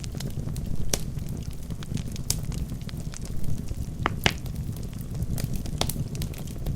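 Wood fire burning in a fireplace: a steady low rumble of the flames with irregular sharp crackles and pops from the burning logs, a few louder pops about a second in and around four seconds in.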